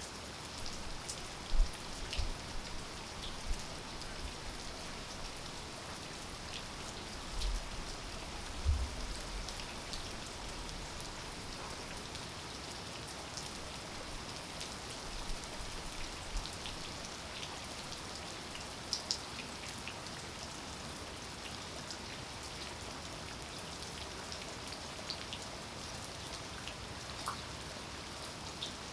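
Steady rain falling, with individual drops ticking on nearby surfaces. There are a few soft low thumps near the start and again about a quarter of the way through.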